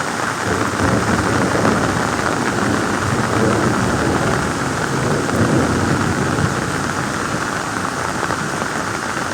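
Heavy rain pouring steadily: a dense, even hiss with a low rumble beneath it.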